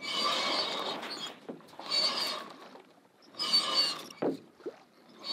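Headsail being rolled in on its roller furler: the furling line hauled in four pulls, each a second-long rasp of line and gear, with short pauses between.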